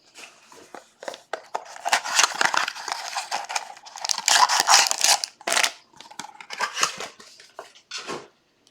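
Trading card packaging being handled and torn open: repeated short bursts of crinkling and tearing wrapper and card stock.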